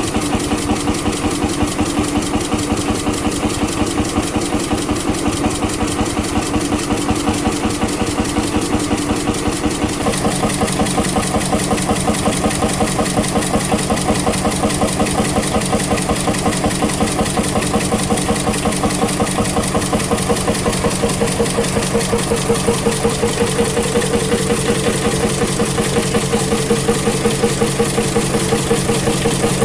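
Vintage engine running steadily with a regular, even beat. Its tone changes about ten seconds in.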